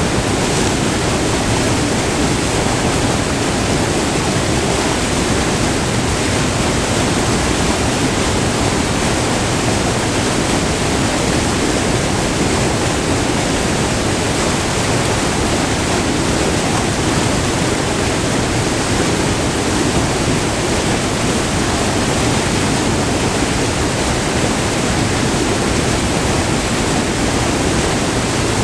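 Loud, steady rush of white water pouring over a short multi-tiered river waterfall.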